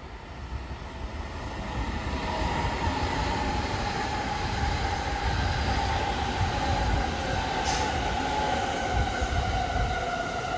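Electric train approaching and running along the platform, getting louder over the first two seconds, with a steady rumble of wheels on rail and a high whine that slowly falls in pitch. A brief sharp click about three-quarters of the way through.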